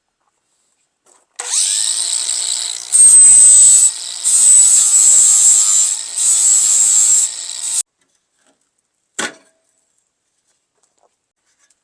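Electric drill running and biting into metal, drilling out the pop rivets of an old pickup tailgate: a steady high whine in about four pushes with short letups, stopping about 8 s in, then one short click.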